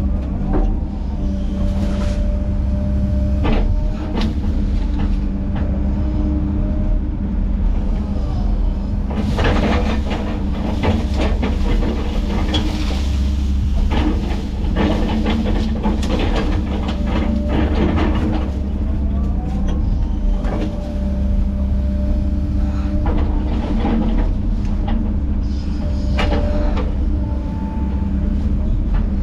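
Heavy diesel land-clearing machinery running steadily under load, with many sharp clanks and cracks of metal and breaking wood, thickest through the middle.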